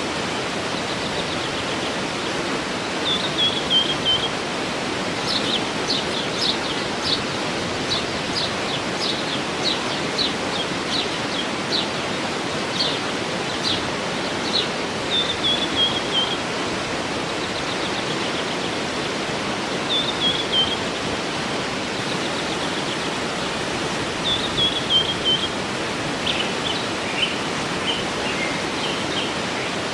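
Waterfall rushing steadily, with birds singing over it. One bird repeats a short falling phrase every few seconds, and another gives runs of short sharp notes, about six to twelve seconds in and again near the end.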